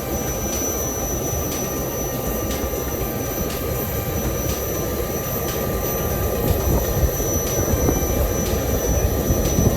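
Steady jet engine noise with a constant high-pitched whine over a low rumble, heard from inside a private jet's cabin before takeoff.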